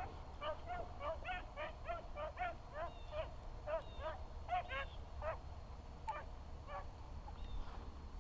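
Beagle pack baying on a rabbit's trail: a quick string of short high bays and yelps, two or three a second, thinning out toward the end.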